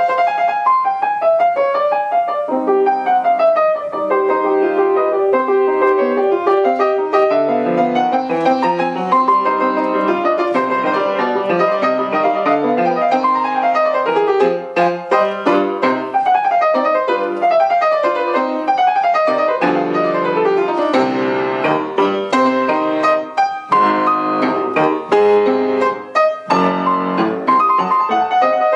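Solo piano playing a classical piece: flowing runs of notes, then from about halfway on short, sharply struck chords separated by brief gaps.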